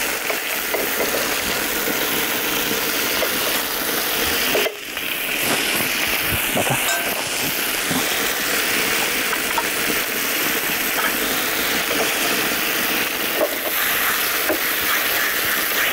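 Chicken breasts sizzling steadily in butter in a nonstick frying pan, with a brief drop in the sizzle about five seconds in.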